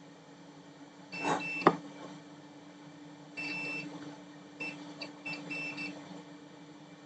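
Electronic beeping from repair-bench equipment: single high-pitched beeps a couple of seconds apart, then a quick run of short beeps. A click comes about a second and a half in, and a steady low hum starts with it.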